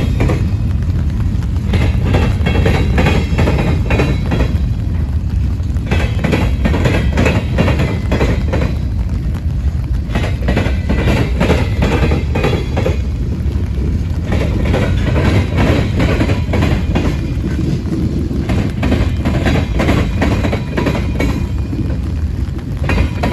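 Freight cars of a manifest train rolling past: a steady low rumble with repeated wheel clicks over the rail joints, and a hiss that swells and fades as each car goes by.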